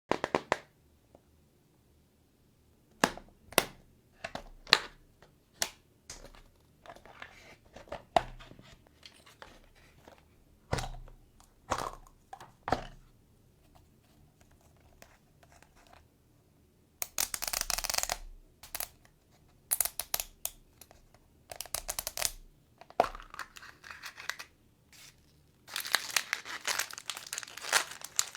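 Unwrapping a Zuru surprise toy egg. In the first half there are sharp separate clicks and taps of plastic parts. In the second half come bursts of tearing and crinkling wrapper, loudest near the end.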